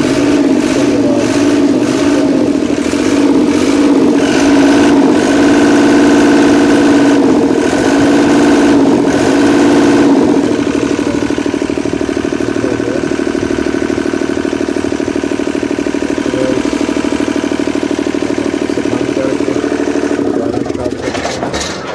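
Diesel engine of a Genie scissor lift running just after new injection-pump plungers and injectors were fitted, being throttled up gently to check it. It runs higher and louder for about ten seconds, then settles to a steadier, quieter speed, and the sound cuts off sharply near the end.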